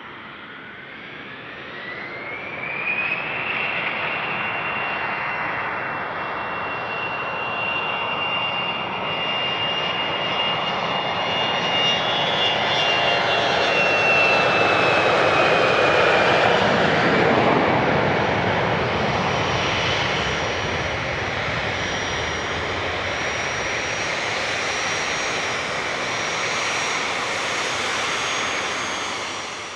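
Jet aircraft passing close by: a high engine whine rises over the first few seconds and holds, under a growing roar. The roar is loudest about halfway, and the whine sinks in pitch as the plane goes past.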